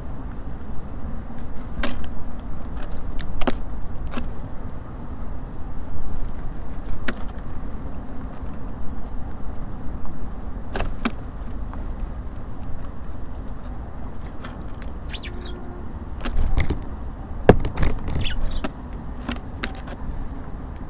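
Small birds at a feeder: scattered sharp taps and knocks from pecking and landing, busiest and loudest with a few short high chirps about three-quarters of the way in, over a steady low rumble of road traffic.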